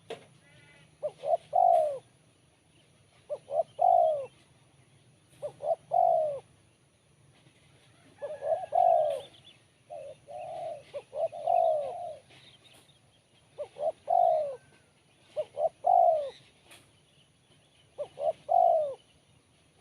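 Spotted dove (tekukur) cooing: a phrase of a few quick notes ending in a longer coo, repeated about every two seconds.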